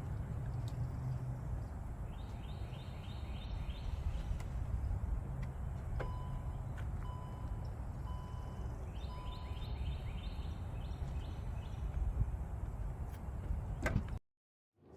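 Outdoor park ambience: a steady low rumble with birds calling, twice in a quick series of high notes that step downward, and a run of short, evenly spaced single-pitch beeps in between.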